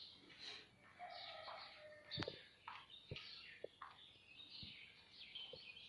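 Ring-necked parakeet calling in many short high chirps, with a few sharp clicks in between.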